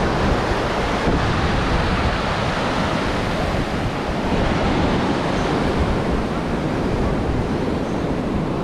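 Ocean surf washing onto a sandy beach, a steady rush, with wind buffeting the microphone.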